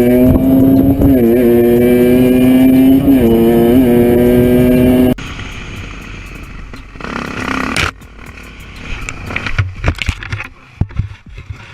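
Motorcycle engine held at high revs with a few quick rises in pitch, cut off abruptly about five seconds in; after that, quieter knocks and clicks.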